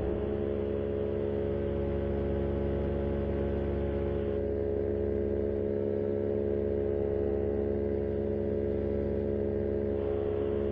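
Paramotor engine and propeller running at a steady cruise, one unbroken drone. The repaired, rebalanced propeller is running smooth, without the vibration it had before.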